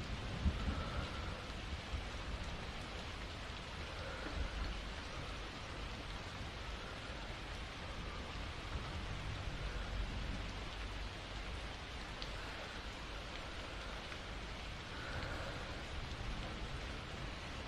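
Steady rain with a low rumble of distant thunder, strongest near the start. Faint, slow soft breaths rise and fall every few seconds over the rain.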